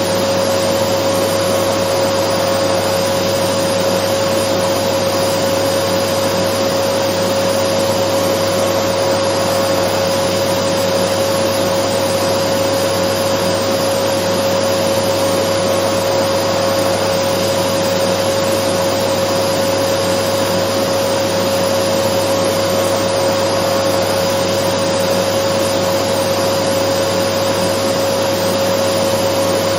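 Dyson vacuum cleaner running steadily: a constant rush of air with an unchanging whine from the motor.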